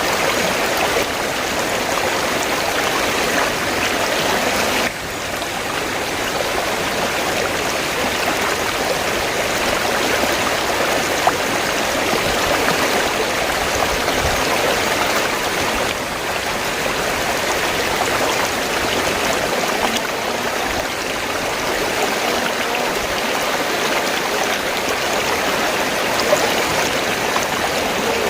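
River water flowing, a steady rushing and burbling of a stream.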